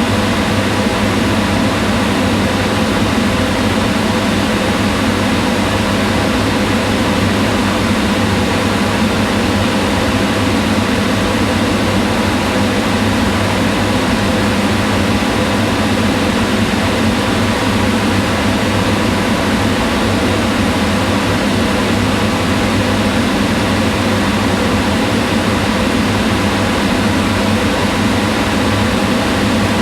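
Kitchen range hood extractor fan running steadily: a constant rush of air with a low hum and no change throughout.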